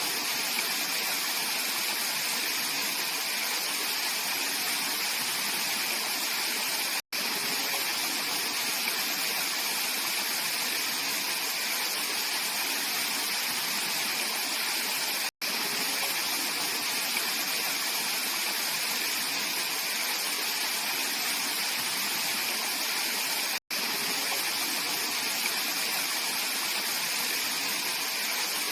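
Mountain valley stream flowing: a steady rush of water. Three times it cuts out for a split second, about eight seconds apart.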